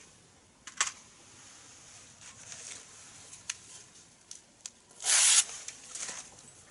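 Wood fire crackling in a fire pit: scattered sharp pops and ticks over a soft hiss, with a louder burst of rustling noise about five seconds in.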